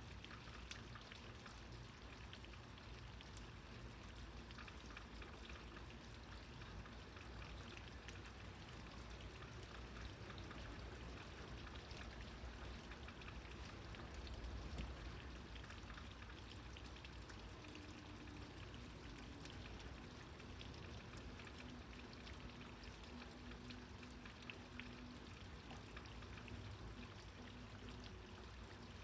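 Steady rain falling, with many small drop impacts. A low rumble swells briefly about halfway through.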